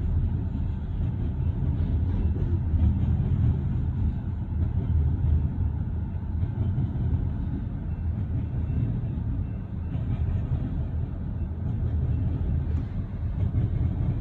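Loaded coal hopper cars of a freight train rolling past, a steady low rumble of wheels on the rails.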